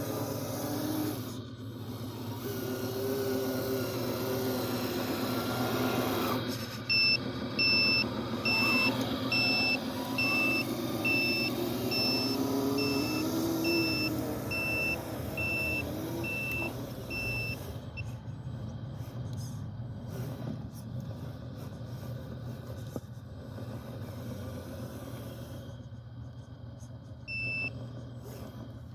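Heavy-equipment engine running, its pitch rising and falling as it works, with a reversing alarm beeping about once every 0.8 s for roughly ten seconds. The engine settles to a steadier, quieter run afterwards, with one more beep near the end.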